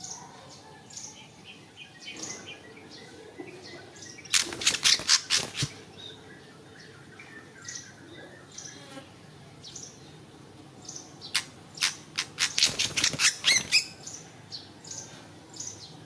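A small bird calling close by: two bursts of rapid, harsh calls, one about four seconds in and one about eleven seconds in, with soft high chirps in between.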